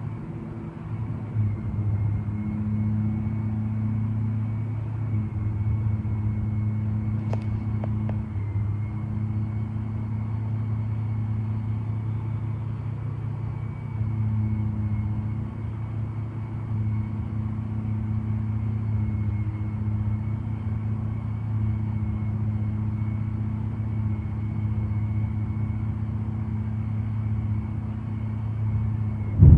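Construction machinery running with a steady low drone and a faint, steady high whine over it.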